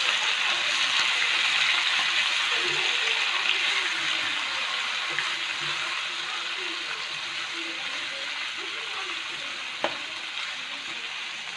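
Chicken pieces and chayote sizzling in hot oil in a nonstick wok while being stirred with a slotted spatula. The sizzle slowly fades, and there is one sharp click near the end.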